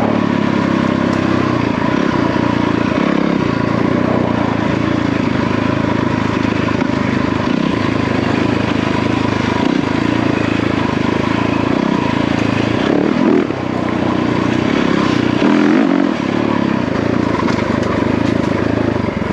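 Yamaha WR450F dirt bike's single-cylinder four-stroke engine running as the bike is ridden, with the engine note easing off briefly every couple of seconds as the throttle is rolled on and off.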